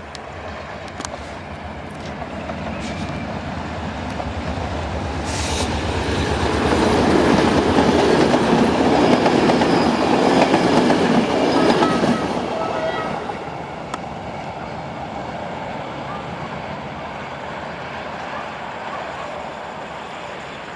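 Passenger train hauled by an EMD-engined LDE GM Class 65 diesel locomotive passing close by. The engine and the rattle of wheels on the rails build up and are loudest for several seconds in the middle, then ease off as the coaches roll away.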